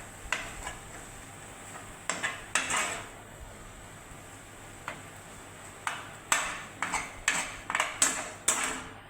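A kitchen utensil knocking and scraping against a dish while mixing ginger garlic paste into fish: short irregular clinks and scrapes, a few near the start and a quick run of them in the second half.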